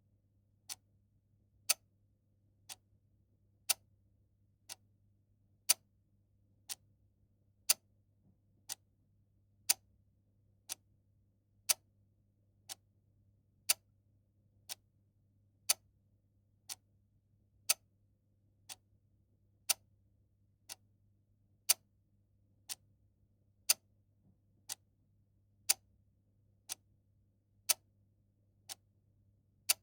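Clock ticking steadily at about one tick a second, the ticks mostly alternating louder and softer in a tick-tock pattern, over a faint low hum.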